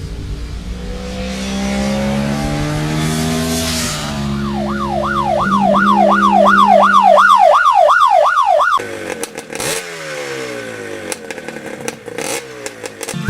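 A vehicle engine revving with a rising pitch. Midway a loud, fast siren-like wail sweeps up and down about three times a second, then cuts off suddenly, followed by scattered clicks.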